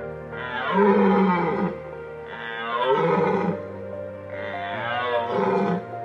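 Three drawn-out animal calls, each over a second long and bending up and down in pitch, over steady background music.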